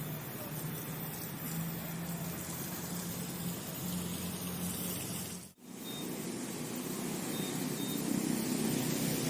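Steady hum and wash of road traffic, with a sudden brief dropout a little past halfway through.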